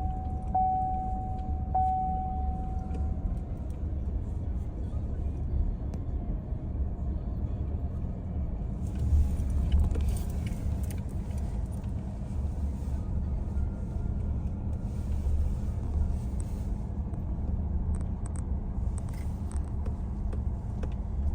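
Car driving, heard from inside the cabin: a steady low road rumble, with a thin steady tone during the first few seconds and a hiss joining from about nine seconds in.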